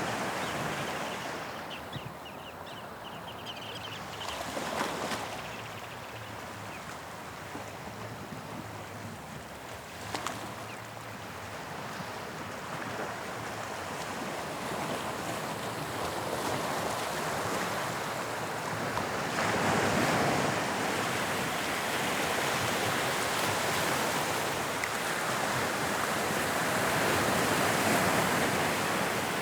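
Sea waves breaking and washing on the shore, a continuous rushing surf that swells louder in the second half, peaking twice.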